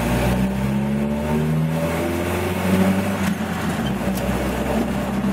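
A Jeep Wrangler YJ's 2.5-litre four-cylinder engine pulling away under load, its pitch climbing, dropping around two seconds in, then climbing again.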